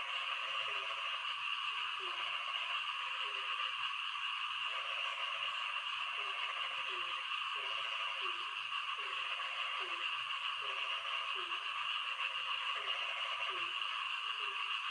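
A frog calling over and over, each call a short note that drops in pitch, repeating about once every 0.8 seconds. Steady rain hiss underneath.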